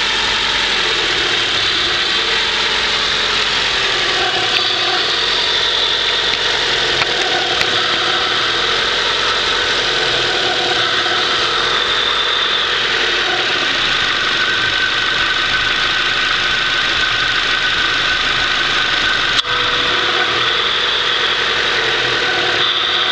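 Honda CRX Si engine idling with a steady hiss and faint whistling tones over it: a vacuum leak, which the owner believes comes from the idle air control valve (IACV). A single sharp click about 19 seconds in.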